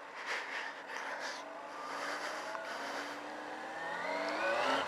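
Yamaha FZ6's inline-four engine accelerating hard, its pitch climbing steadily from about a second and a half in.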